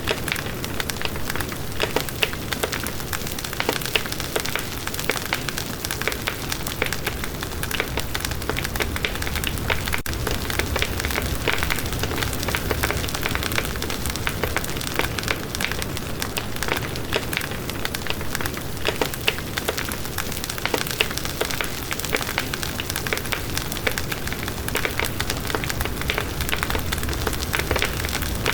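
Campfire burning with steady, dense crackling and popping of the wood.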